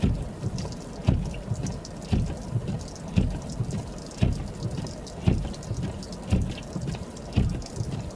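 Footsteps crunching through snow, a heavy thump about once a second with crackling in between.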